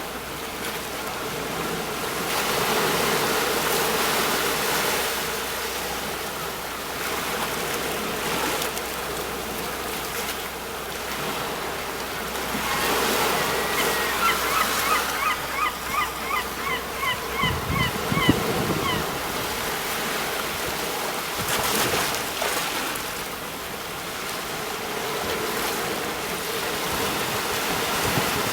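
Sea waves breaking and washing up on a shore: a steady rushing noise that swells and ebbs. About halfway through, a rapid string of short, high chirping calls runs for several seconds.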